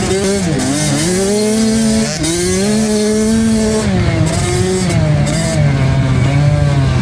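65cc two-stroke motocross bike engine revving under throttle, its pitch climbing, dropping sharply and climbing again as the throttle is rolled off and reopened. There is a drop about half a second in and another about two seconds in, and the pitch settles lower near the end.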